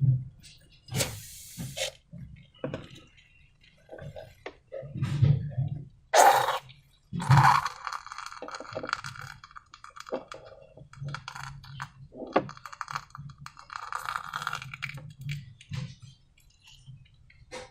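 Irregular handling sounds of slime and balloons: taps, clicks, squishes and short scrapes, with a louder cluster about six to seven seconds in.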